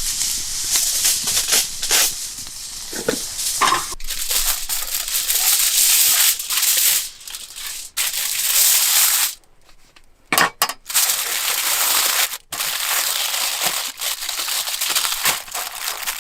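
Food sizzling and crackling as it cooks over a campfire, a steady hiss with scattered crackles, broken by several abrupt cuts and brief drops to quiet a little past the middle.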